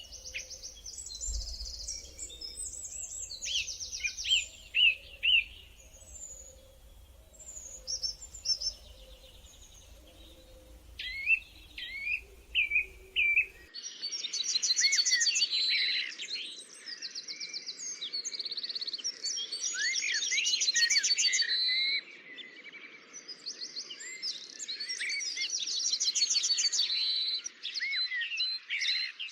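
Several wild songbirds singing: chirps, quick trills and whistled notes overlapping. About halfway through, a faint low hum drops out and a denser, more continuous chorus of birds takes over.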